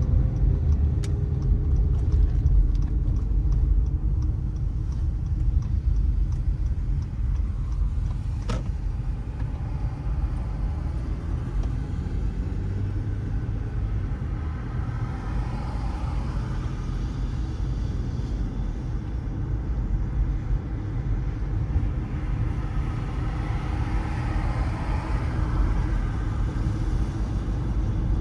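Car driving on city streets: a steady low rumble of engine and road noise, with a short falling engine note at the start, a sharp click about eight seconds in, and two swells of traffic noise about halfway and near the end.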